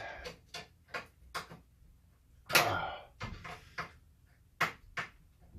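Irregular short clicks and taps of hard plastic and metal parts being handled and worked on while an Xbox 360 is taken apart, with one longer hiss about two and a half seconds in.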